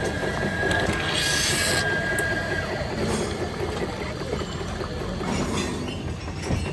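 A train running, with a steady high squeal over the first couple of seconds and a short hiss about a second in.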